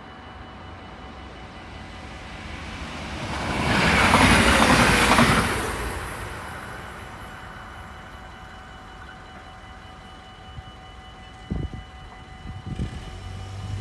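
Electric passenger train passing the level crossing, a rush of wheel and rail noise that builds to its loudest about four seconds in and fades away over the next few seconds. The crossing's warning bell rings steadily throughout. Near the end, a couple of sharp knocks and a low hum come as the barrier arms begin to lift.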